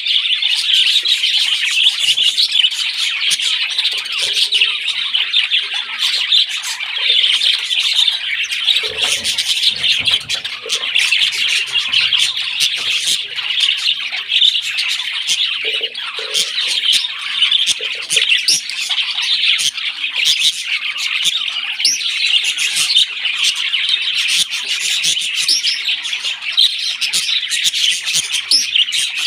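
Parrots chirping and chattering without a break, a dense high-pitched twittering.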